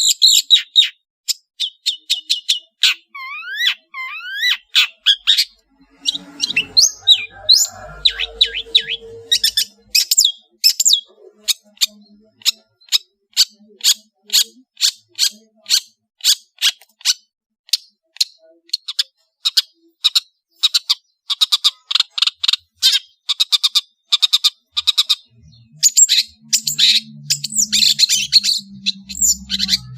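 Long-tailed shrike (cendet) singing a fast, varied song: rapid runs of sharp, high repeated notes, with a few rising slurred whistles about three to five seconds in.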